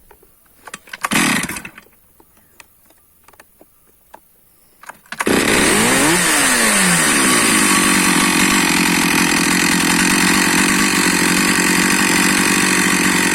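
Stihl MS460 two-stroke chainsaw engine starting about five seconds in, its speed falling quickly from a high rev, then running steadily and loudly. A short loud rasp about a second in comes before it.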